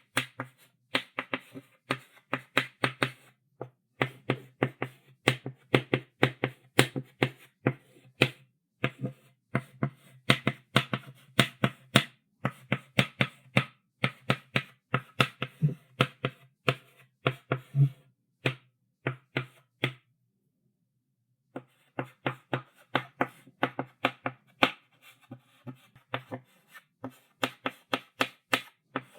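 Chalk writing on a blackboard: quick taps and short strokes of the chalk against the board, several a second, with a pause of about a second and a half about two-thirds of the way through.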